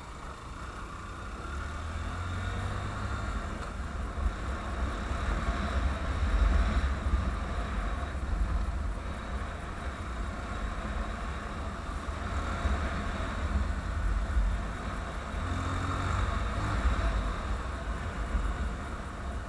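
A motor vehicle running, a heavy low rumble that swells and eases, loudest about six seconds in and again near sixteen seconds.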